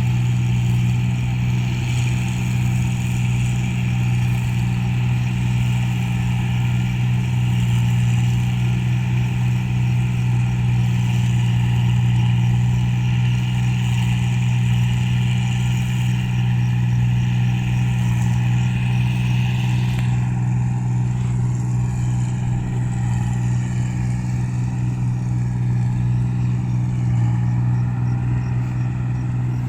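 Rice combine harvester's engine running steadily under load while cutting paddy, a constant deep hum with higher machinery noise on top. About twenty seconds in, the higher-pitched part of the noise drops away and the engine hum carries on.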